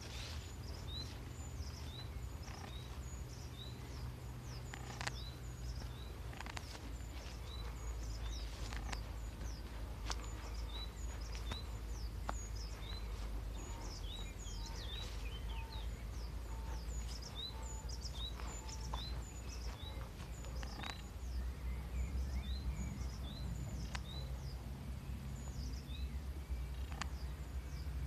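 Small birds calling with short, high chirps repeated about once or twice a second, over a steady low rumble on the microphone and the occasional rustle and click of footsteps through undergrowth.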